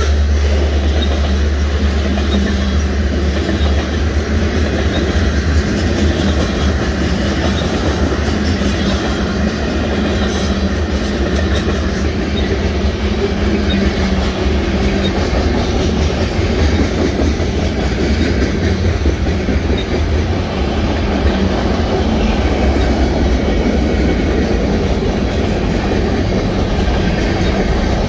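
Freight train cars rolling past at speed: a steady rumble with the clatter of steel wheels over the rails.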